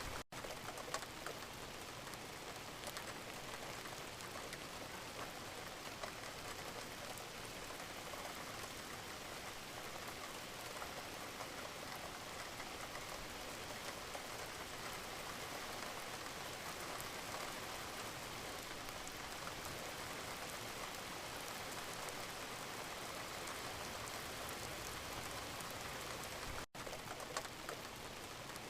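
Gentle, steady rain, with a dense patter of individual drops falling on a surface. The sound drops out for an instant twice, once right at the start and once near the end.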